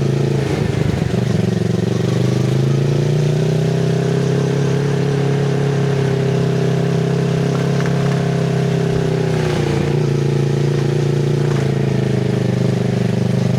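Kawasaki Z650RS parallel-twin engine through an IXIL MK2 full exhaust with its dB killer fitted, running at low to middling revs. Its pitch dips about half a second in, climbs gradually over the next few seconds, holds steady, and drops again near ten seconds in.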